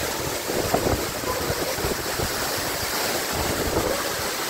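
Waterfall's rushing water as a steady wash of noise, with wind buffeting the microphone in irregular low gusts.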